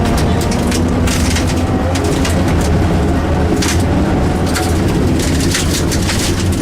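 Rally car's engine heard from inside the cabin, running at low, fairly steady revs with a deep drone, with scattered sharp clatters and knocks from the car on the move.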